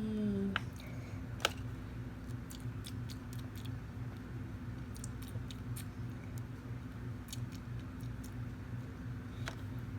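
Scattered light clicks and taps of small plastic toy pieces being handled, over a steady low electrical hum.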